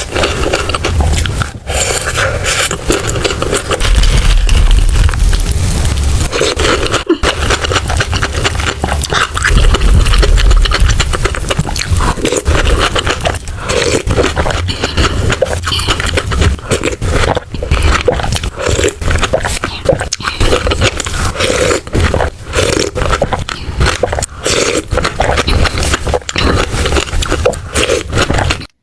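Close-miked chewing and mouth sounds of someone eating salted caramel sweets, loud and continuous with many small wet clicks, and two stretches of deep rumble against the microphone; it cuts off suddenly at the end.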